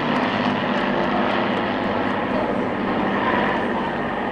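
Propeller-driven piston aircraft engines droning steadily in flight.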